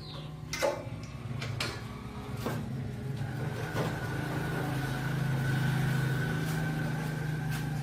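A machine's motor running with a steady hum that grows louder, with a higher whine joining partway through, cut across by a few sharp metallic clicks and knocks, and stopping suddenly at the end.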